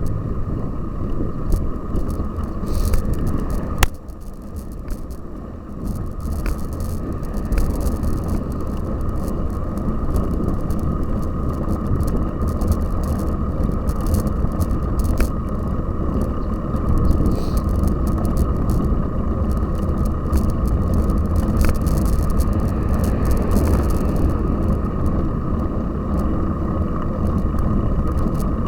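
Cyclocross bicycle being ridden: a steady rumble of tyres and wind on the microphone, with scattered clicks and rattles from the bike and a sharp knock about four seconds in.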